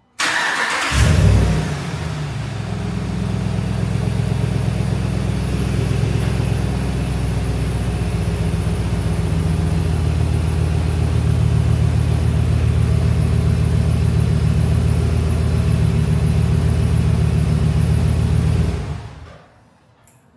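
Truck engine cranked and started, flaring briefly a second in, then idling steadily with its exhaust, with no whine from the freshly replaced idler pulley; it is shut off near the end and dies away.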